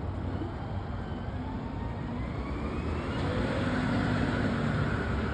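Garbage truck's diesel engine running, growing louder about halfway through.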